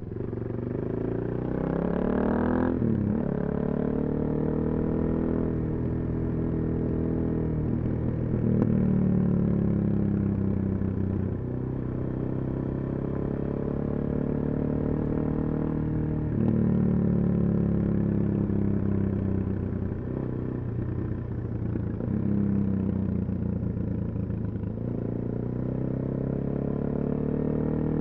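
Suzuki DR-Z400SM's single-cylinder four-stroke engine through a full Yoshimura exhaust, ridden on the road. It revs up hard over the first couple of seconds and drops sharply at a gear change near 3 s, then repeatedly eases off and pulls again every few seconds.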